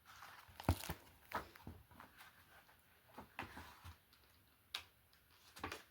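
Paper rustling and crinkling as the pages of a picture book are handled and turned, with several short, sharp rustles and clicks.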